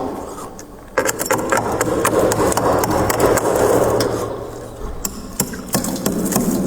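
Freezer frost being scraped: a dense gritty crunching in long strokes, easing off briefly about half a second in and again around four seconds in.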